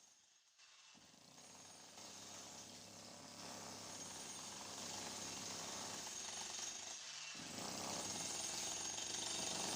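Jackhammer hammering steadily during demolition work, faint at first and growing louder, with a brief pause about seven seconds in.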